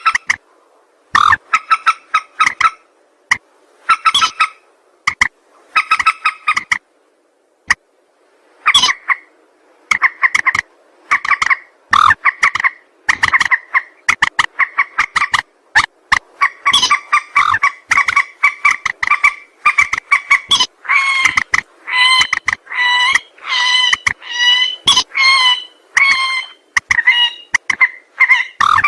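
Mandar sawah, a rice-field rail, calling in bouts of loud, harsh notes repeated several times a second. The bouts run closer together in the second half until the calling is nearly continuous.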